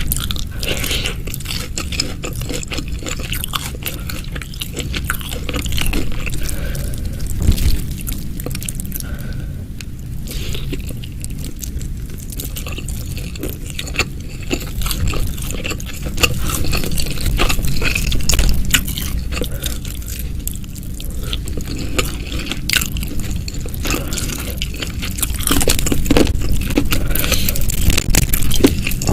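Close-miked eating: continuous chewing and biting, with many small wet clicks and crunches.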